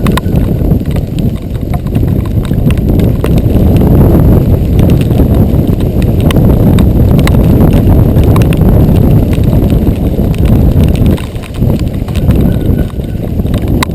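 Giant XTC 3 composite mountain bike rattling over a rough dirt trail: scattered clicks and knocks from the bike over a heavy wind rumble on the microphone, easing briefly about 11 seconds in.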